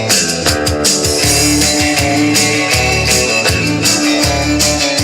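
Live band playing the instrumental opening of a country-rock song: electric guitar over a drum kit, before the vocals come in.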